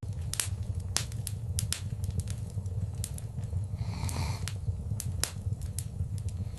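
Wood fire crackling in a fireplace: irregular sharp pops and snaps over a steady low rumble, with a brief swell of hiss about four seconds in.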